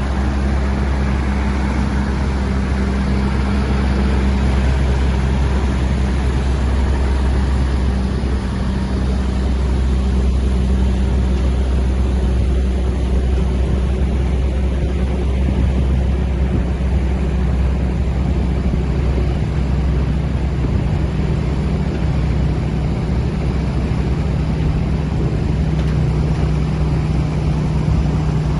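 A heavy truck's engine running steadily with a deep rumble; its tone drops slightly about two-thirds of the way through.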